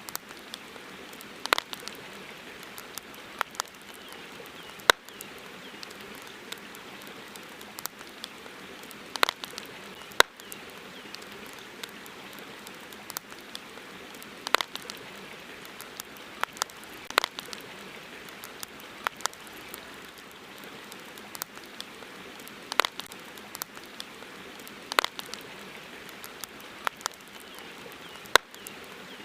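Wood campfire crackling: sharp, irregular pops every second or two over a steady soft hiss.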